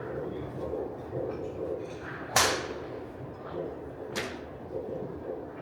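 Golf club striking a ball twice, sharp cracks about two seconds apart, the first louder.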